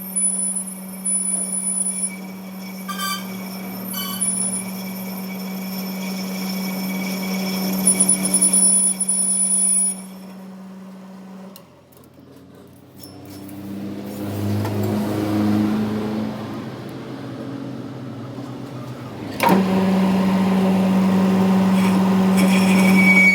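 A machine's motor running with a steady hum. It stops about halfway through, a quieter shifting rumble follows, and the hum starts up again abruptly near the end.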